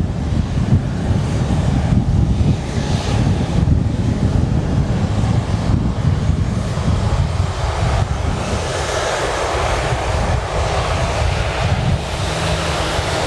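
Wind buffeting the microphone as a steady low rumble, with jet engine noise growing from about eight seconds in.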